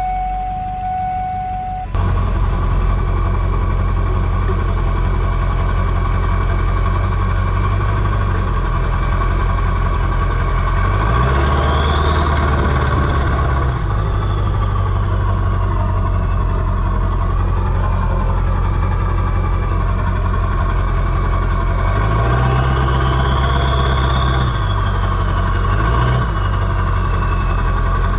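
Ford 7.3 Power Stroke turbo-diesel V8 idling with diesel clatter. It is revved up twice, about ten seconds apart, and a turbo whistle rises and falls with each rev. For the first two seconds a steady single tone is heard before the engine sound comes in loud.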